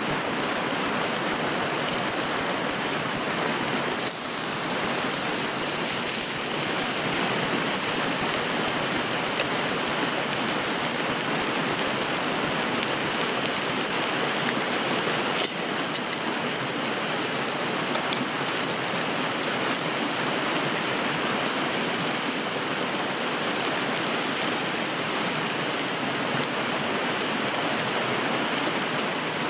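A river flowing and rushing steadily, with a brief dip about four seconds in and again about fifteen seconds in.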